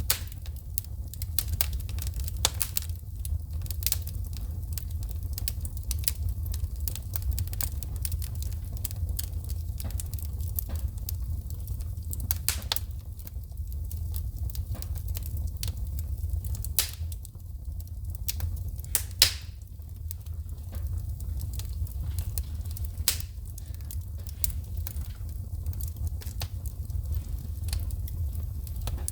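Wood fire in a fireplace crackling, with frequent sharp pops as sparks shoot from the burning logs, one louder snap about two-thirds of the way through, over a steady low rumble.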